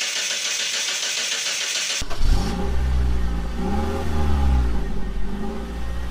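Car engine running with a deep rumble, revving up and back down about three seconds in. It follows about two seconds of bright hissing that cuts off abruptly.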